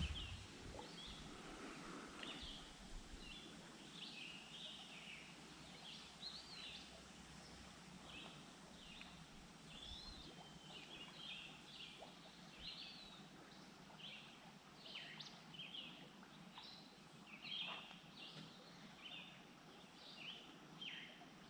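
Faint chorus of songbirds in woodland: many short chirps and whistled notes from several birds, overlapping throughout, over a low steady background hiss. A single sharp click right at the start.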